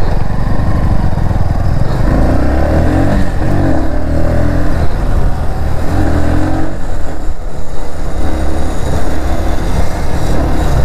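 Motorcycle engine running while riding, its pitch rising and falling with the throttle, over a heavy rumble of wind on the microphone.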